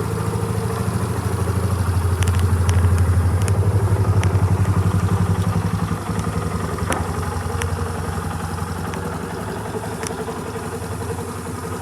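LML Star Deluxe 4S 200 scooter's four-stroke single-cylinder engine idling steadily. It grows a little louder about two seconds in, settles back after about six seconds, and a few light clicks sound over it.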